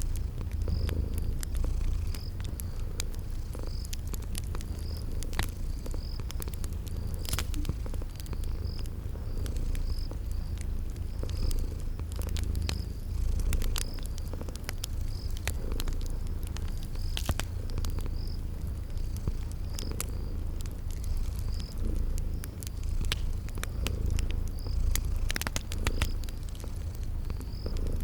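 Cat purring steadily in a low rumble, with a wood fire crackling in irregular sharp pops and a cricket chirping about once a second.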